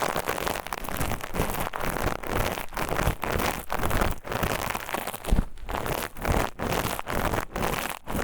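Scratching and rubbing strokes across the ear of a KU100 dummy-head binaural microphone, an ASMR ear-scratching trigger, in even strokes about twice a second.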